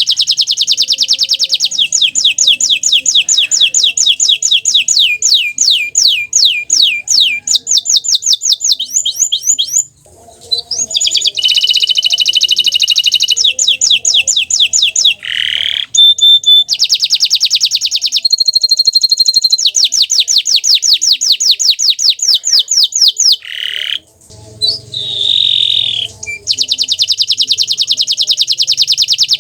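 Domestic canary of the bottle-green colour variety singing: long, loud trills of rapidly repeated high notes, broken by short pauses about ten seconds in and again near twenty-four seconds.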